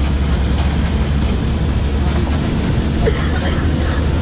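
Motor vehicle on the move: a steady low engine hum under continuous road and wind noise.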